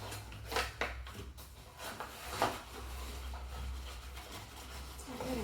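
A few light knocks and taps of a measuring cup against a mixing bowl while flour is measured out, over a low steady hum.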